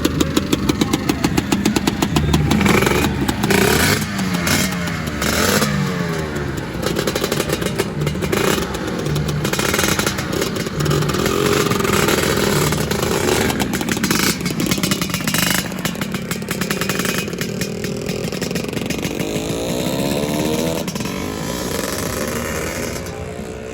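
Lambretta scooters' two-stroke engines running and revving as they ride off, the engine note pulsing quickly at first and then rising and falling several times as scooters pass; the sound dies away a little near the end.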